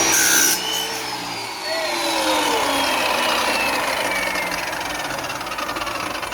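An electric power tool's motor winds down after spinning up. Its whine falls slowly and steadily in pitch for several seconds after a sudden start.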